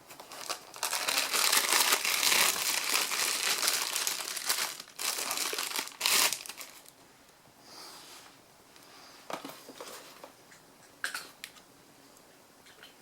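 Crinkling and rustling handling noise close to the microphone, dense for about the first six seconds, then a few scattered clicks.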